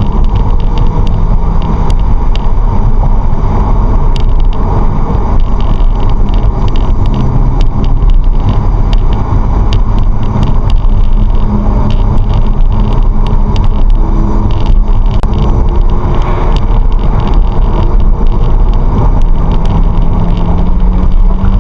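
Car driving steadily: a constant rumble of engine and road noise, with scattered faint clicks.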